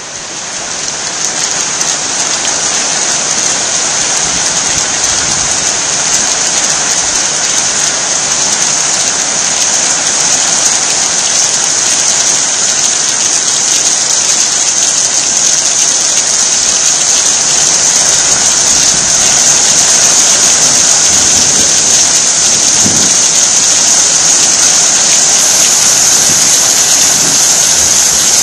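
Heavy rain falling steadily, a dense even hiss that fades in over the first two seconds and grows a little louder through the middle.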